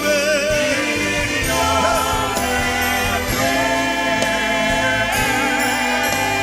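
Gospel worship music: a band playing sustained chords with voices singing over it.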